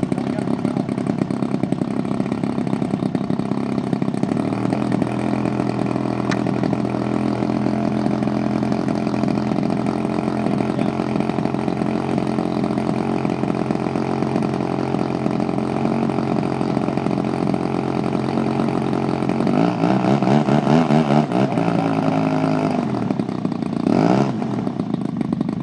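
Engine of a large radio-controlled Super Decathlon model airplane running steadily; near the end its pitch wavers, then briefly sweeps up and down.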